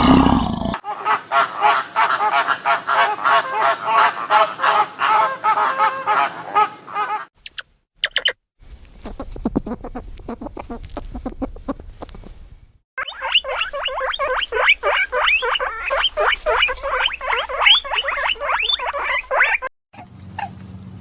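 A run of short animal-call clips edited one after another: first a fast string of repeated calls over a steady high whine, then a few brief calls after short gaps, then a long run of rapid chirping calls.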